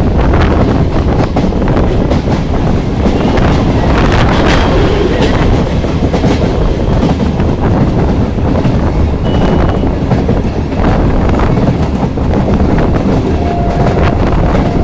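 Local passenger train running along the track: a loud, steady rumble with the wheels clattering over the rails.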